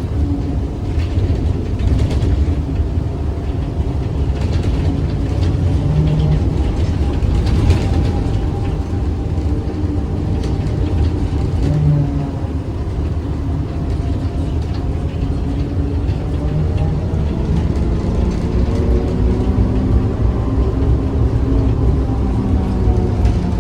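ZiU-682G trolleybus under way: a steady low rumble of the running gear and tyres, with the traction motor's whine gliding up and down in pitch as it speeds up and slows. Scattered light rattles and clicks are heard over it.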